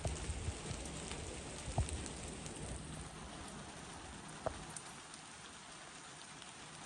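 Steady rain falling in a forest, an even hiss of drops with a few sharper single drop hits, two of them louder at about 2 and 4.5 seconds in. A low rumble under it in the first half fades out about halfway through.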